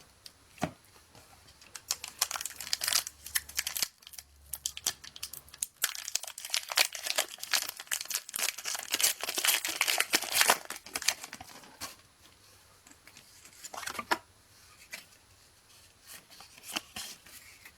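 Foil Pokémon TCG booster pack wrapper being torn open and crinkled, a dense crackling for several seconds. It thins to quieter, scattered rustles of handling near the end.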